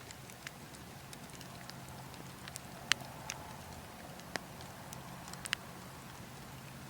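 Burning logs crackling, with scattered sharp pops (the loudest about three seconds in, others a second or two later) over a steady low wind noise.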